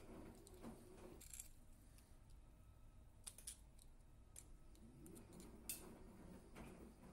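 Near silence, with a few faint, scattered clicks from small hand tools being handled.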